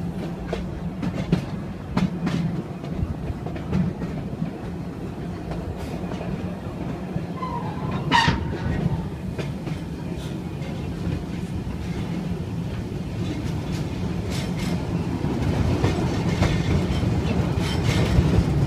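Open-sided passenger cars of a steam train rolling along the track: a steady rumble with scattered clicks of the wheels over the rails, and one brief sharp sound about eight seconds in. The running noise grows louder near the end.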